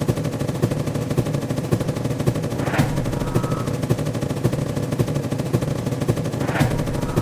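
Fast, continuous rattle of clicks like machine-gun fire. A sharp impact sound effect hits about three seconds in and again near the end, each followed by a brief tone.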